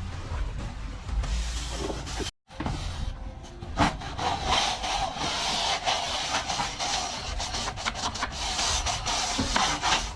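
A plastering trowel scraping and rubbing over a plastered surface in quick repeated strokes. The sound cuts out completely for a moment about two seconds in.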